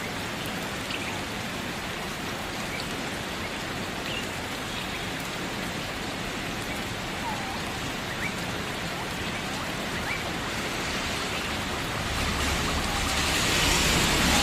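Steady rain falling, an even hiss of drops on surfaces. Near the end a louder, rising rush of noise builds over it.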